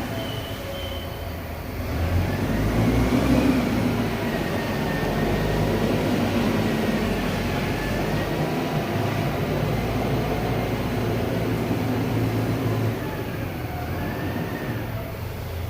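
Forklift truck running, a steady low hum with a whine above it that slowly rises and falls in pitch; it grows louder about two seconds in and eases off near the end.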